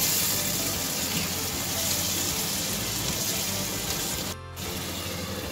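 Onion, tomato and ginger-garlic masala sizzling in oil in a pan as it is stirred with a spatula: a steady hiss, with background music under it. The sound drops out briefly a little over four seconds in.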